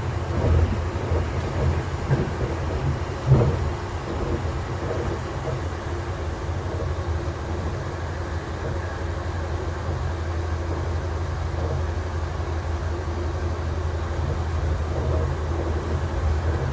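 Passenger train running on the rails: a steady low rumble, with a few knocks in the first four seconds, the loudest about three and a half seconds in.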